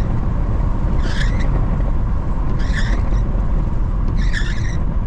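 Car driving, with a steady low road and engine rumble in the cabin and a short swish repeating about every second and a half.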